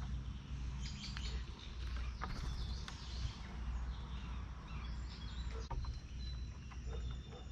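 Small songbirds chirping and calling, short high notes scattered throughout, over a steady low rumble.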